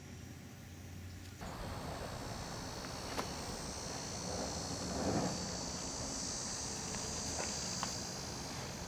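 Insects chirring steadily at a high pitch, starting about a second and a half in. A few faint sharp clicks and a brief louder rustle about five seconds in are heard over it.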